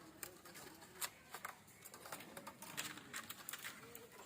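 Irregular light clicks and taps of bamboo strips being handled and worked by hand.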